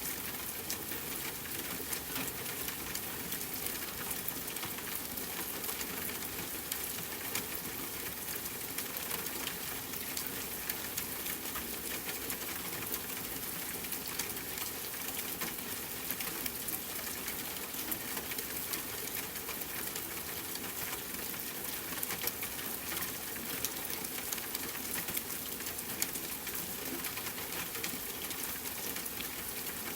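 Steady rain with a campfire crackling: an even hiss with frequent small pops and ticks throughout.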